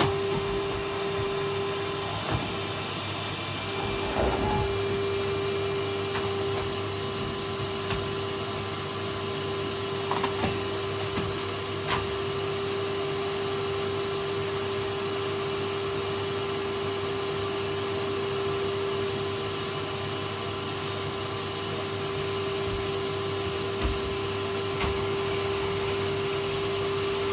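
Vacuum cleaner running steadily, a constant whine over its rushing hiss, with a few sharp knocks.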